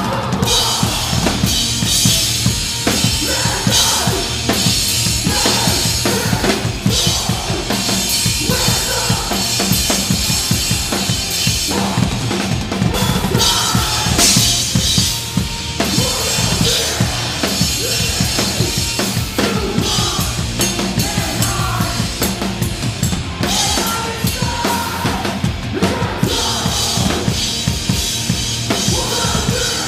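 Live metalcore band playing heavy music, the drum kit to the fore: a dense, driving pattern of bass drum and snare with cymbals, over a full band.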